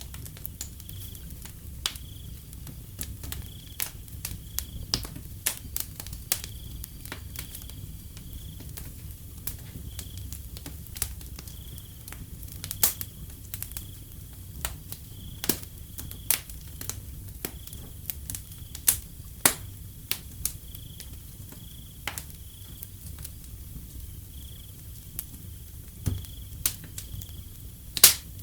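Wood fire crackling, with irregular sharp pops over a low rumble; the loudest pops come as a close pair near the end. A cricket chirps steadily in the background, about once a second.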